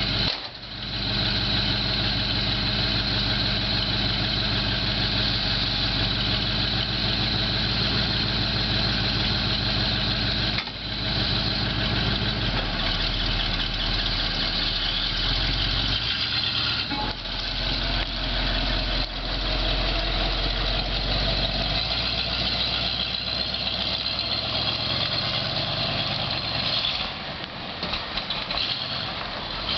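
Old antique truck engine running steadily, with a brief dip about ten seconds in and shifts in its note a few seconds later.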